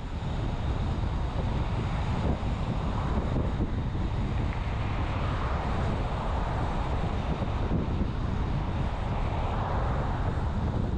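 Road noise of a vehicle driving, heard from inside: engine, tyre and wind noise that swells right at the start as it picks up speed and then holds steady.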